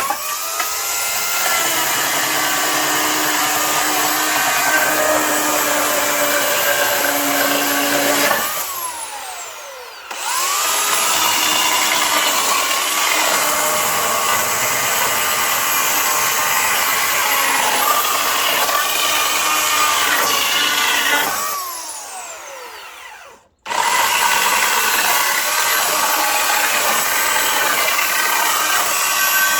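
Electric motor of a power tool for wood running with a steady whine. It is switched off twice, each time spinning down with a falling pitch, and starts up again at once.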